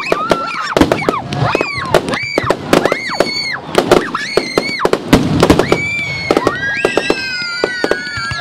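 Fireworks going off in quick succession: sharp bangs and crackles, with many short whistling tones that rise and fall, and a few longer whistles in the second half.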